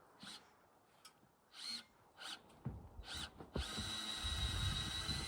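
A power drill is given several short trigger pulls, each a brief rising-and-falling whine. About three and a half seconds in it runs steadily with a constant whine.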